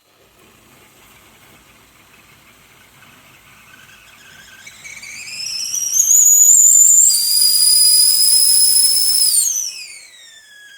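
Easyworkz stainless steel stovetop kettle whistling at the boil. A faint steam hiss turns into a whistle that rises in pitch and swells to a loud, steady shrill. Near the end it slides down in pitch and fades away.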